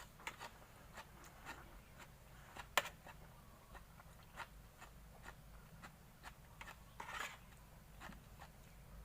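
Close-up chewing and biting of fresh shrimp: scattered wet mouth clicks, with one sharper crunch about three seconds in.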